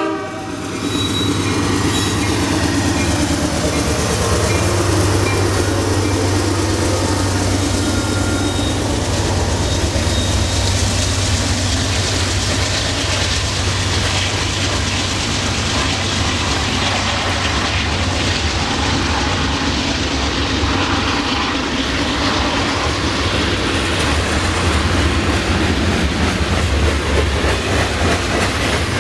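Norfolk Southern freight train passing close by. The locomotive's engine note drops in pitch over the first few seconds as it goes past, then the cars roll by with a steady low rumble and wheel clatter.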